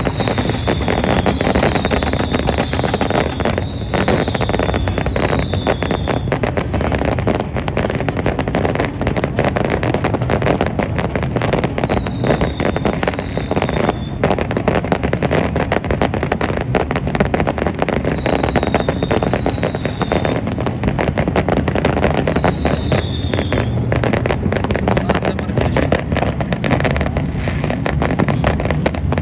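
New Year fireworks display: dense, continuous crackling and popping, with a run of short falling whistles in the first few seconds, then more in the middle and again near the end.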